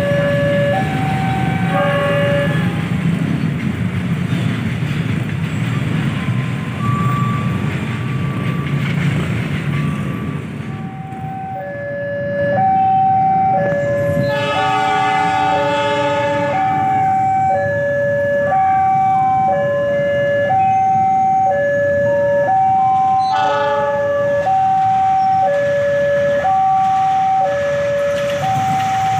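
Train running through a level crossing with a low rumble that fades out about ten seconds in. The crossing's electronic warning alarm sounds in an alternating two-tone pattern, about one tone a second; it stops shortly after the start and resumes around eleven seconds in, then keeps going. A train horn sounds for a few seconds partway through.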